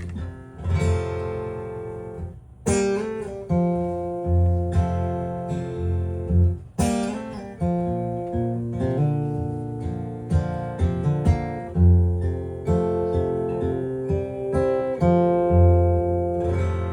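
Acoustic guitar playing an instrumental break in a country song: strummed chords struck at a regular pace over low bass notes.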